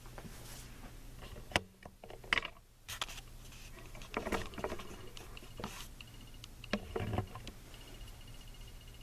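1989 Casablanca Delta II ceiling fan running on low speed with a steady low hum, over a scatter of irregular clicks and knocks, and a faint high ticking tone in the second half.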